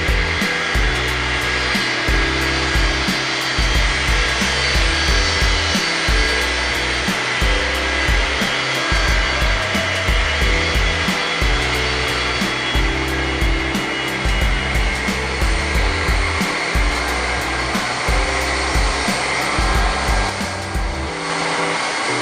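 Music with a moving bass line, played over a steady jet-engine roar with a high whine, typical of a Boeing 737-200's Pratt & Whitney JT8D turbofans.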